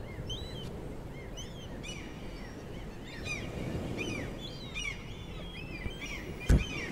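Small birds chirping repeatedly, quick high arched calls, over a low steady background rumble. A single sharp thump sounds near the end.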